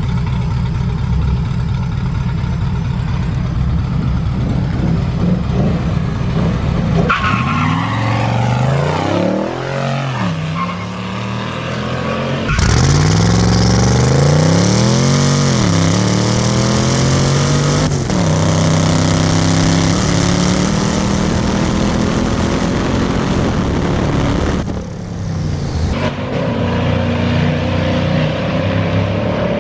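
A twin-turbo Chevy Silverado and a Mustang GT's 5.0 V8 in a drag race, engines running loud and accelerating hard, the pitch climbing and dropping again and again through the gear changes. The sound changes abruptly several times.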